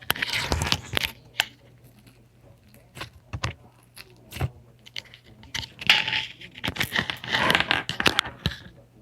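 Slime squeezed and stretched by hand close to the microphone: crackling, clicking pops in two dense bursts, one at the start lasting about a second and another from about six to eight and a half seconds in, with single clicks scattered between.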